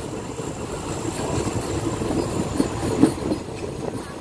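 Train running along the rails, heard through an open carriage window: a steady rumble of wheels on track, with a couple of sharper clacks about three seconds in.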